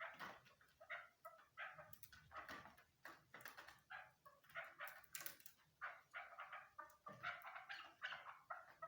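Chukar partridge (chakor) calling: a faint run of short calls repeated two to three times a second, crowding closer together near the end.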